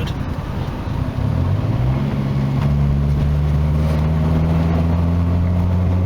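Old Nissan's engine and exhaust while driving: the engine note rises for a couple of seconds as the car picks up speed, then holds steady. The exhaust is fairly loud, running through what is practically an open rear silencer.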